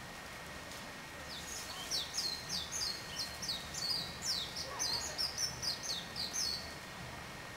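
A songbird chirping in a quick run of short, high notes, about three a second, starting about a second in and stopping after about five seconds.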